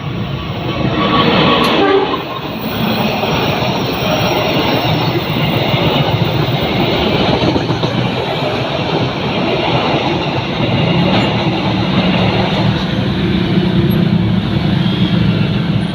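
Train passing at close range: a steady rush of wheels running over the rails, with a horn sounding briefly about a second in.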